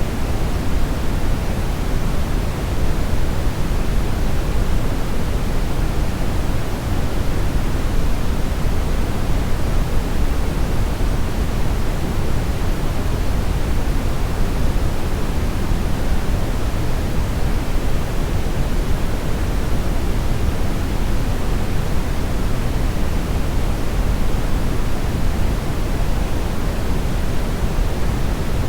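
Synthetic brownish noise: a steady, even hiss-rumble weighted towards the bass, thinning out in the treble, with no change or events.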